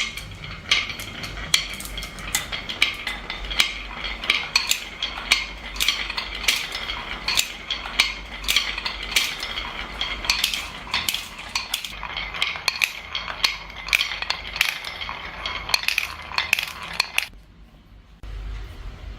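Many marbles rolling and clattering down a marble run, a continuous stream of sharp clicks and clinks. It stops about 17 seconds in, leaving a quieter background.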